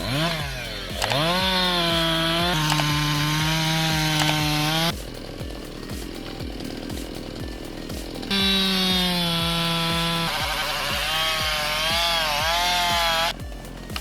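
Chainsaw engine at high revs, its pitch dipping and recovering as the chain bites into wood. It drops to idle about five seconds in, revs up again a few seconds later, and drops back to idle near the end.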